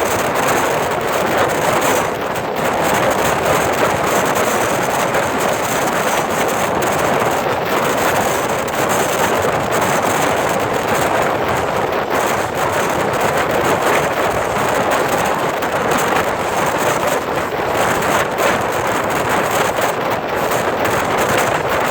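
Passenger express train running through the station at speed: a steady, loud rush of wheels on the rails with a rapid clatter of clicks from the rail joints and wheels. Wind buffets the microphone.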